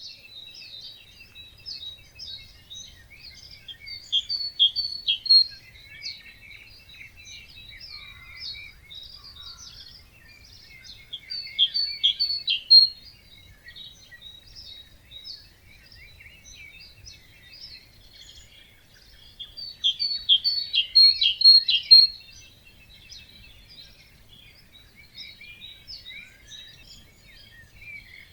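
Songbirds singing, many birds at once. One louder bird repeats a fast, rattling song phrase of a second or two about every eight seconds, over steady quieter chirping and twittering from the others.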